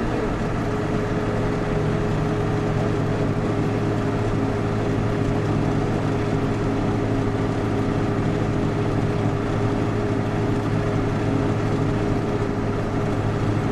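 Steady drone of a vehicle being driven, heard from inside: engine and road noise with a constant low hum and a thin steady whine above it.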